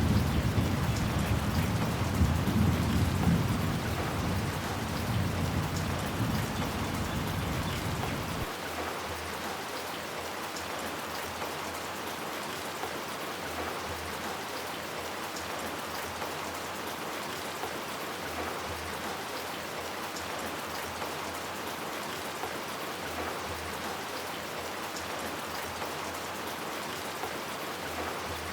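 Steady rain hiss, with a low rumble of thunder that fades over the first eight seconds or so and then stops abruptly, leaving only the rain.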